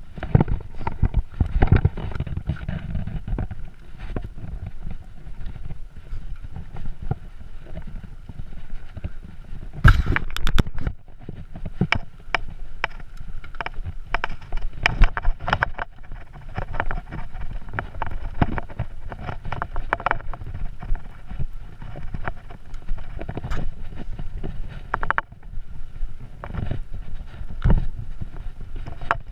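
Irregular clattering and knocking over a low rumble, as of equipment jolting over rough ground, with a dense cluster of knocks about ten seconds in.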